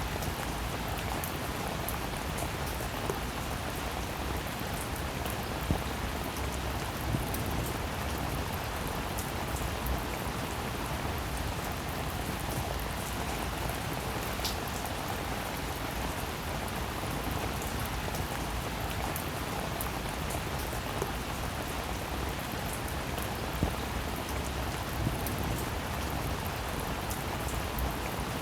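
Steady rain falling, an even hiss of drops with fine ticks of individual raindrops throughout and a few sharper drop hits standing out.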